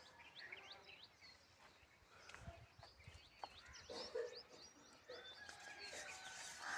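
Faint, scattered high chirps of small birds, many short calls in quick succession, with a few lower calls near the middle and end.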